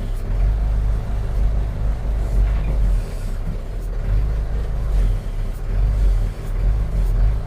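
Backhoe engine running with a deep, uneven rumble as the machine is driven.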